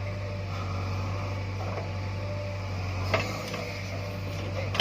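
Mahindra 585 DI Power Plus tractor's diesel engine running with a steady low drone, with a few short sharp clicks over it.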